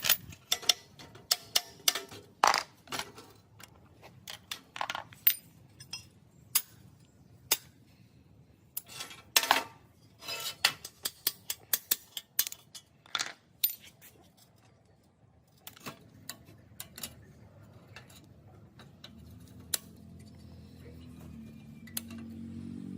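Small metal parts and tools clinking and tapping against each other in a run of sharp, irregular clicks; later a low hum slowly rises.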